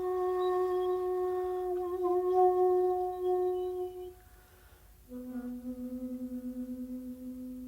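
Solo shakuhachi (Japanese end-blown bamboo flute) holding a long, steady note, then after a short breath a lower note with a pulsing, wavering tone.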